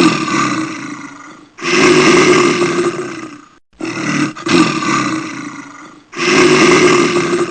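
A large animal roaring: four long roars of about two seconds each, each starting loud and tailing off. The second pair closely repeats the first.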